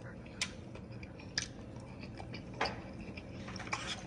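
A person eating a forkful of cheesy cauliflower: quiet chewing with a few small clicks, about one a second.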